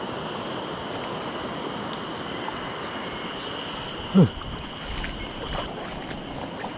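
Mountain stream rushing steadily. About four seconds in comes one short, low sound that falls in pitch.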